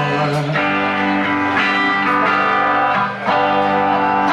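Rock band playing live, with guitar chords ringing out in an instrumental stretch between sung lines. The chord changes about half a second in and again near three seconds.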